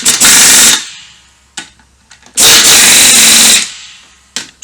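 Power impact wrench running lock nuts onto the small 8mm studs of a lift-kit strut spacer, in two short bursts of about a second each with a hammering rattle.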